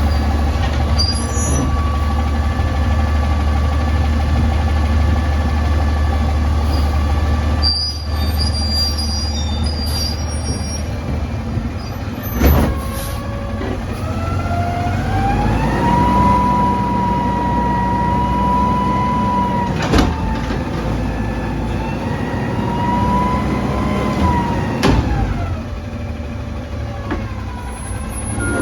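Front-loader garbage truck (Autocar ACX with a Heil DuraPack Half/Pack body) idling, then revving up with a rising whine that holds high, dips, holds again and falls back as it powers its hydraulic lift arms to empty a dumpster. There are three sharp metallic bangs, one about halfway through and two later on.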